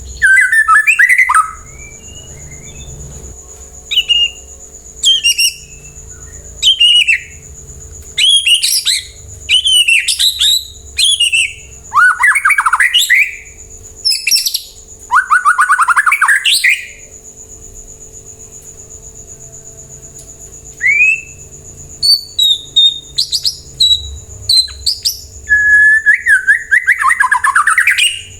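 White-rumped shama (murai batu) singing loud phrases of fast, sweeping whistled notes, each a second or two long, with short pauses between them and a longer pause about two-thirds of the way through. A faint steady high-pitched tone runs underneath.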